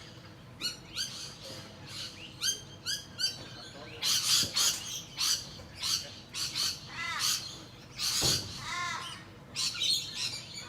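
A flock of birds calling over one another: a run of short chirping calls, with louder, harsher squawks about four seconds in and again about eight seconds in.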